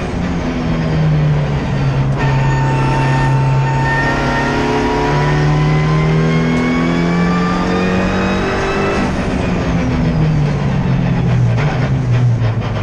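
Race car engine heard from inside the cabin, under load at full throttle with its pitch climbing steadily for several seconds, then dropping sharply about a second before the end.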